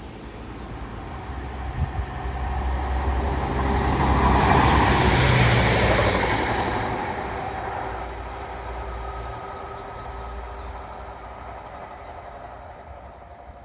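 Diesel multiple unit passing: engine hum and wheel noise build to a peak about five seconds in, then fade away.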